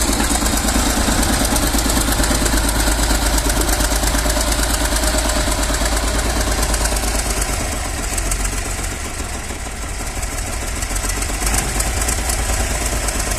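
Tractor's diesel engine running steadily with a fast, even firing clatter, easing off for a couple of seconds in the middle before picking up again.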